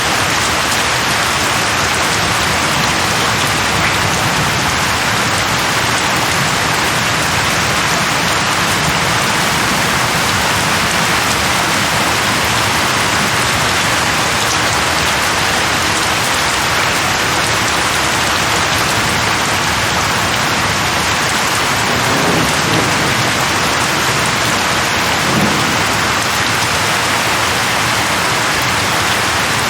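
Steady, heavy rain falling in a dense, even hiss. Two brief low rumbles rise slightly out of it near the end.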